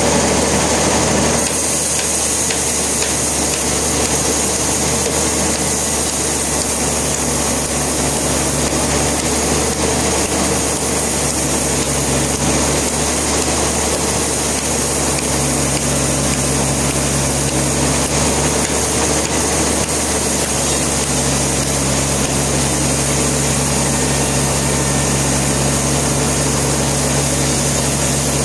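Sawmill machinery running steadily, a loud constant mechanical drone; a high hiss drops away about a second and a half in.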